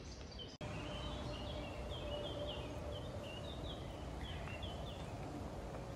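A small bird singing: a run of short, high, falling notes, two or three a second, that stops about two-thirds of the way through. It sits over a low steady rumble, with a single click about half a second in.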